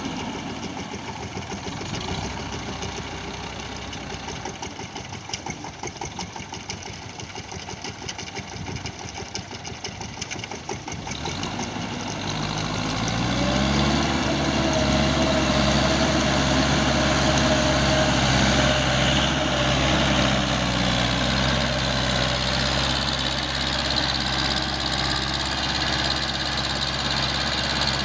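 TAFE 5900 DI tractor's diesel engine running at low speed with a fast, even clatter, then revving up about twelve seconds in and holding steady at a higher, louder speed.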